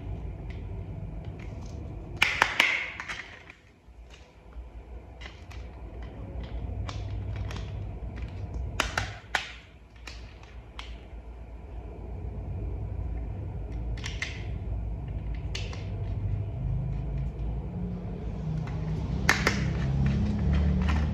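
Small plastic toy parts being handled and snapped together: scattered sharp clicks and knocks, a few louder snaps, over a low rumble of handling noise.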